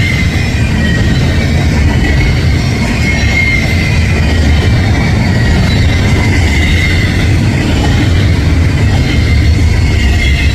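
Double-stack container freight cars rolling past at close range: a loud, steady rumble of wheels on rail, with a faint wavering high squeal from the wheels.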